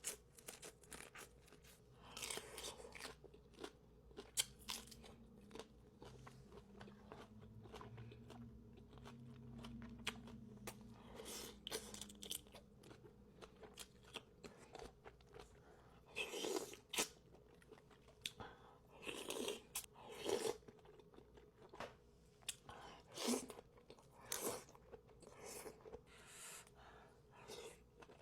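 Close-miked eating: steady chewing with frequent small mouth clicks, and several louder bites in the second half.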